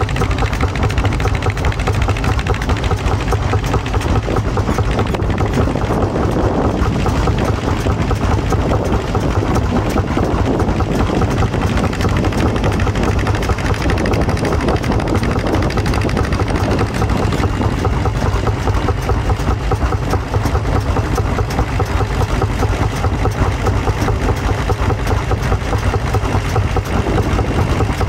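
Vintage tractor engine running steadily with a dense, even beat.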